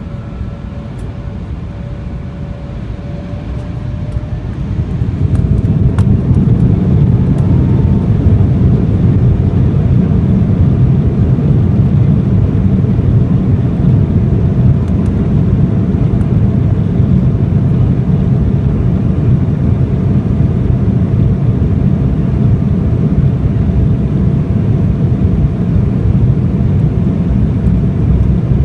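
Embraer 175's twin turbofan engines spooling up to takeoff power about four to five seconds in, a faint whine rising with them. Then a steady loud roar and rumble as the jet runs at takeoff thrust.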